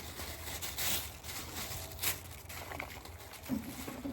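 Light rustling with a few sharp clicks and crackles: acorns and dry leaves being handled and sorted through by hand.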